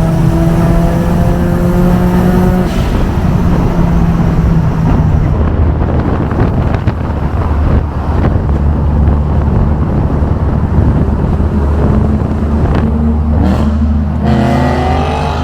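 A car engine running under way with road noise. The engine note drops about five seconds in and rises again near the end as the car accelerates.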